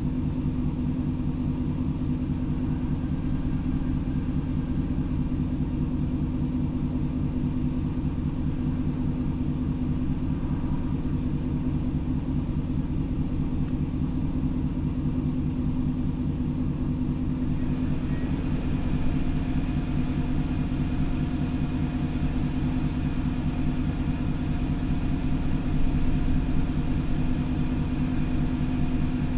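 Steady low rumble of an idling vehicle engine, an even hum that does not change. A faint hiss joins it about two-thirds of the way through.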